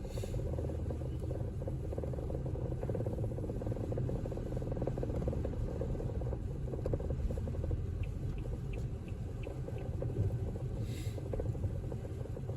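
Steady low road and engine rumble inside a moving car's cabin. A short run of faint, quick ticks comes about two-thirds through, and a brief swish near the end.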